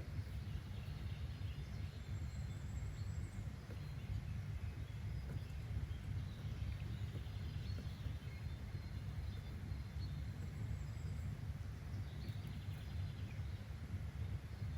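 Nature ambience: a steady low rumble with faint, scattered bird chirps.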